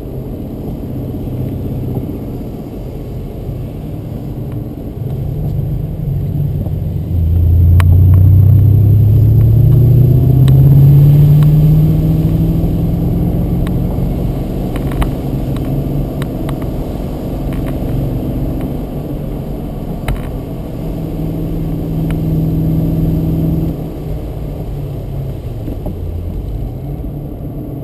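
BMW Z8's V8 engine heard from inside the cabin under way: its note climbs steadily in pitch as the car accelerates hard about seven seconds in, then settles to a steady cruise, with a shorter pull and a drop as the throttle is lifted near the end.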